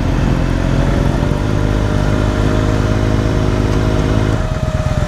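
Motorcycle engine running at a steady speed. About four seconds in, it drops to a lower, evenly pulsing beat.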